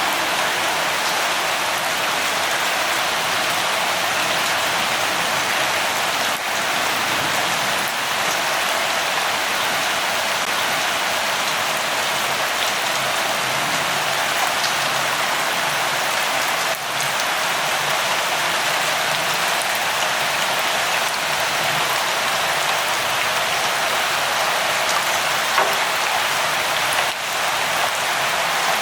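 Steady light rainfall, an even hiss of many drops that stays constant.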